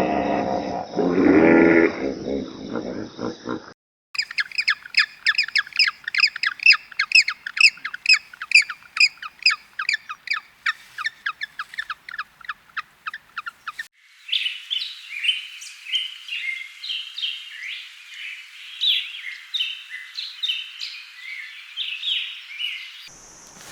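Animal calls cut one after another: first a short pitched call, then a bird giving a long run of rapid, evenly repeated chirps, about four a second, for some ten seconds, then a different bird singing a varied song of high notes.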